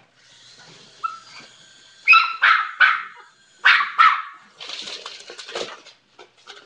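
A dog barking: about five sharp barks in two quick groups, around two and four seconds in, followed by a second or so of scratchy, rustling noise.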